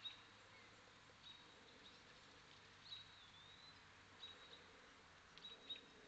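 Faint high chirps of small birds: about five short calls spread over a few seconds, one a slurred note about halfway through, over a faint steady hiss.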